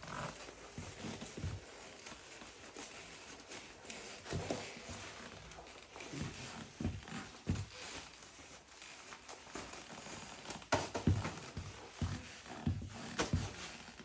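Irregular rustling and crinkling of a mesh textile motorcycle jacket being handled, with soft knocks and thumps. The loudest cluster comes about two-thirds of the way through.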